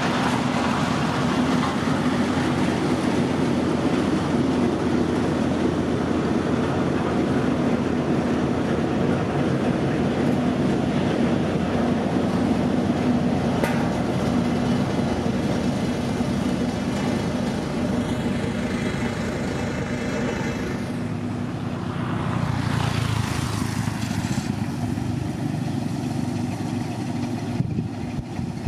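Diesel engine of heavy road-construction machinery running steadily, with a rushing swell a little over twenty seconds in.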